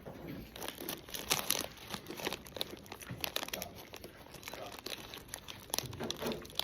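Plastic snack bag crinkling and crackling as it is handled close by, in dense, irregular crackles.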